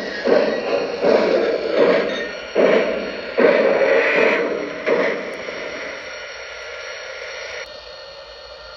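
O gauge model train running on the track, rumbling in uneven surges that ease off after about five seconds to a quieter steady hum.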